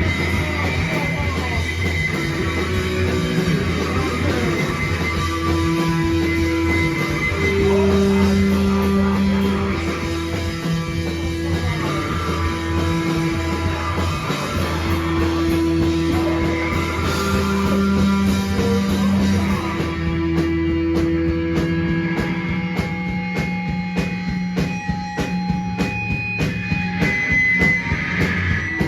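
Live rock band playing loud on distorted electric guitars, bass and drum kit. About two-thirds of the way through, the dense wall of guitar thins out to held notes over evenly spaced drum hits.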